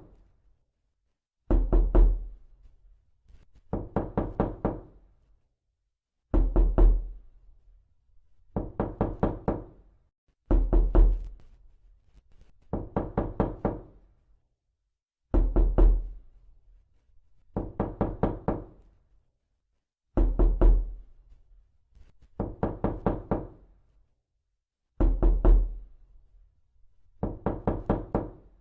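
Repeated knocking: about a dozen quick flurries of four to six knocks each, one flurry every two to two and a half seconds, with some flurries opening on a heavier first knock.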